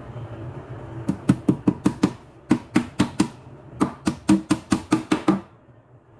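A hammer driving nails: three runs of quick, even strikes, about five a second, starting about a second in and stopping shortly before the end.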